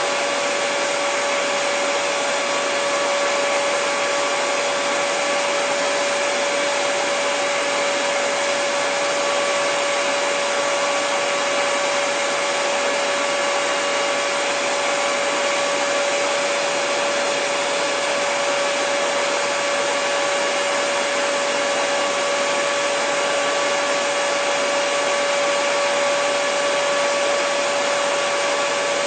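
Hair dryer running continuously and steadily: an even rush of blown air with a constant motor hum at one pitch.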